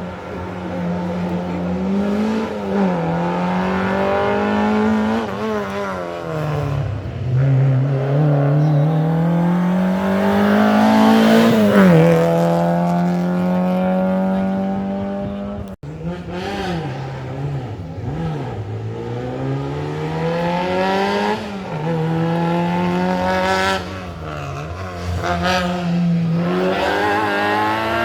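Rally car engines under full attack on a stage, rising and falling in pitch as the cars accelerate, shift and lift for corners. An abrupt change about halfway through brings in a second car.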